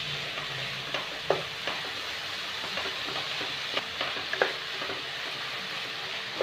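Diced carrots, potatoes, onion and green bell pepper frying in oil in a non-stick pan, with a steady sizzle. A wooden spatula stirs them, scraping through the vegetables and giving a few sharp taps against the pan.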